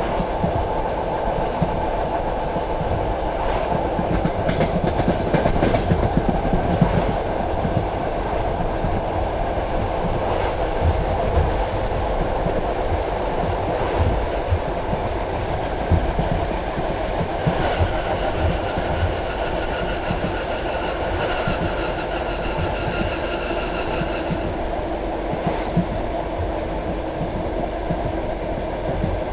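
Passenger train carriage rolling along the track: a steady rumble of wheels on rail with irregular clicks and knocks from the rail joints. A steady high-pitched tone joins for about seven seconds past the middle.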